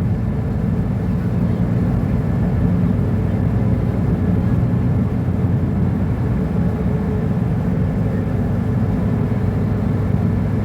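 Mercedes-Benz O-500UA articulated bus's diesel engine (Bluetec 5) running at a steady, unchanging pitch, with no revving.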